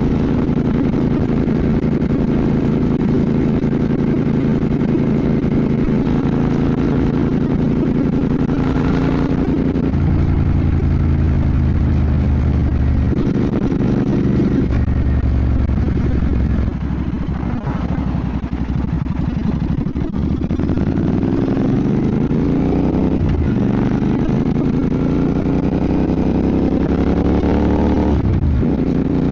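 Royal Enfield Bear 650's 648 cc parallel-twin engine running under way. It holds steady for a while, then eases off, then climbs in pitch again and again as the bike accelerates through the gears.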